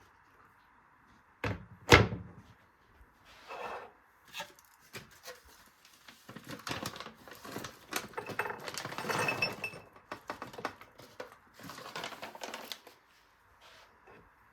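Two sharp knocks about two seconds in, the second the louder, as something hard is set down or knocked, followed by a run of lighter knocks, clatter and rustling as objects are handled.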